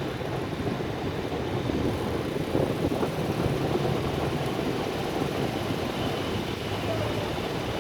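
Steady rumbling road noise: wind on the microphone of a moving bicycle, mixed with passing traffic.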